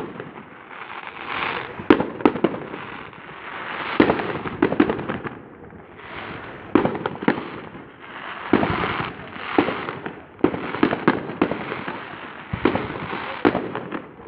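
Fireworks display going off: a run of sharp bangs, some in quick clusters, with crackling between them.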